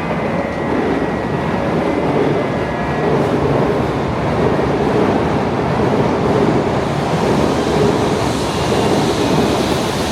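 Shinkansen train running past the platform: a steady rush of wheel and running noise, with a brighter hiss building over the last couple of seconds.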